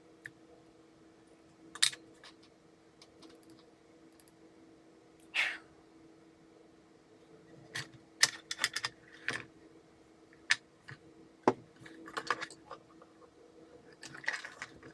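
Scattered clicks, light knocks and short scrapes of small plastic and metal parts being handled, from work on a Makita ML807 18V lantern work light's switch. The clicks come in quick clusters, busiest in the second half, over a faint steady hum.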